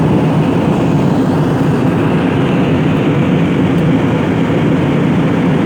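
Steady engine and airflow noise of an airliner in flight, heard inside the passenger cabin.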